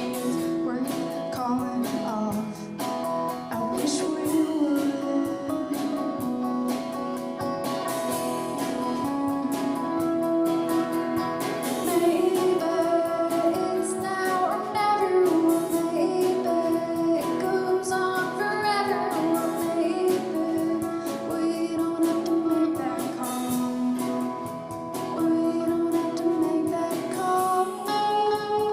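Live band music: a woman singing over guitar accompaniment.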